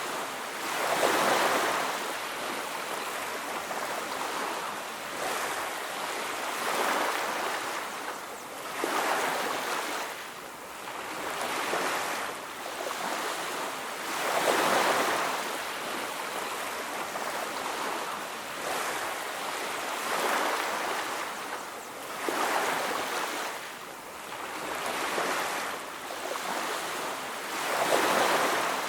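Ocean surf washing onto a beach: a steady hiss of water that swells and eases every few seconds as waves break, with stronger surges about a second in, midway and near the end.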